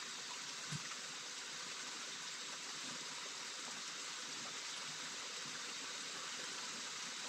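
Rain falling steadily, an even hiss, with one brief low thump about a second in.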